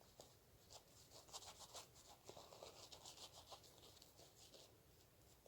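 Faint, short scraping strokes of a freshly honed 6/8 straight razor cutting through stubble, a quick run of strokes in the middle.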